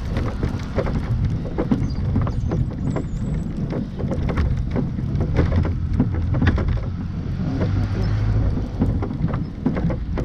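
Velomobile being pedalled slowly through heavy, wet snow: a steady low rumble with many irregular clicks and knocks, with the bottom of the shell possibly dragging or plowing the snow, as the rider suspects.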